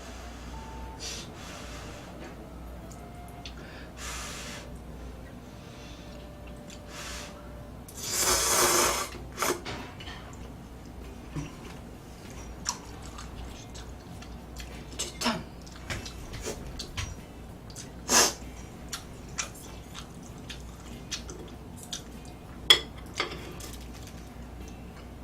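Eating sounds: scattered clicks of utensils on dishes and wet mouth sounds, with one louder noisy sound about a second long about eight seconds in and a sharp click near the end.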